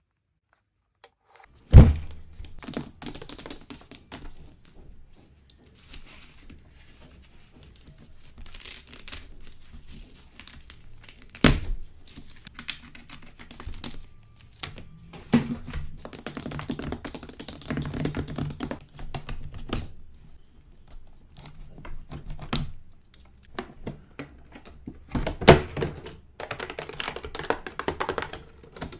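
Toy packaging being opened by hand: plastic and paper crinkling and tearing, broken by a few sharp knocks. The loudest knock comes about two seconds in, after a short silence.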